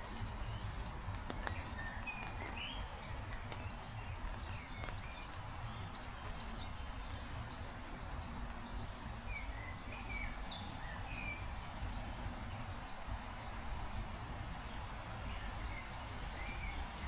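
Steady heavy rain with a low wind rumble, and birds calling in short chirps scattered throughout.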